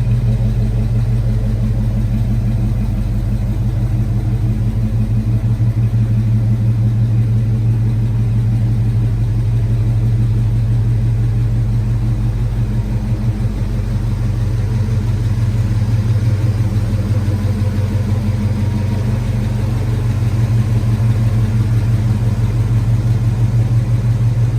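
1975 Ford F250 Highboy's engine idling steadily with an even low exhaust pulse.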